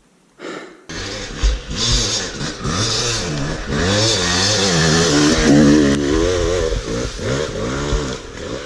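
Yamaha YZ250 dirt bike's two-stroke engine revving hard and unevenly on a steep wooded trail, its pitch rising and falling again and again. The throttle opens about a second in and eases near the end.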